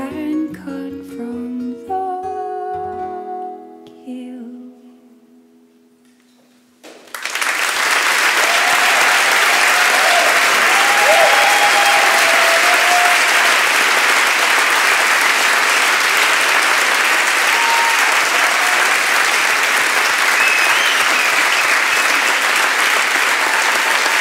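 The last plucked-string notes of an acoustic song ring out and fade away. About seven seconds in, a live audience bursts into loud, sustained applause, with a few cheers.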